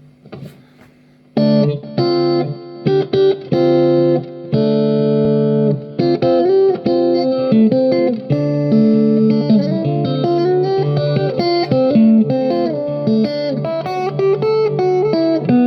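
Guitar music that comes in about a second and a half in after a faint hiss: a plucked melody moving over held low notes.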